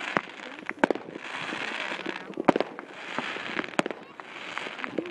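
Aerial fireworks at a display: sharp bangs every second or so, several close together, over a crackling hiss that swells and fades.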